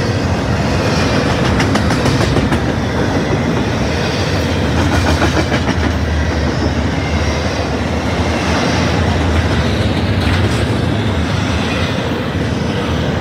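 Double-stack intermodal freight train passing at close range: the steady rolling noise of its well cars' steel wheels on the rails, with a few scattered clicks.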